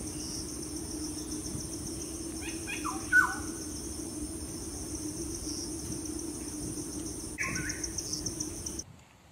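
Several short falling bird calls about three seconds in, the loudest sound, and one more call later on, over a steady, high, evenly pulsing insect trill and a low steady hum. All of it cuts off suddenly near the end.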